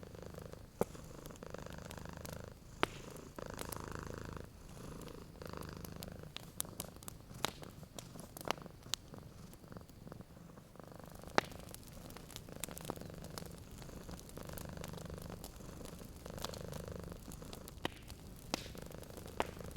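Domestic cat purring steadily in slow pulses, with sharp pops and crackles from a fireplace fire scattered throughout; one pop about 11 seconds in stands out as the loudest.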